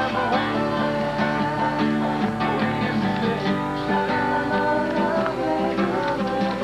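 Acoustic guitar music, plucked strings playing steadily.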